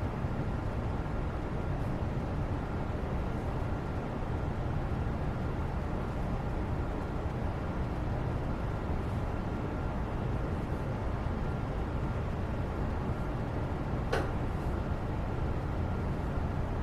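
Steady low rumbling background noise, the constant ambience of a study-with-me recording, with a single sharp click about fourteen seconds in.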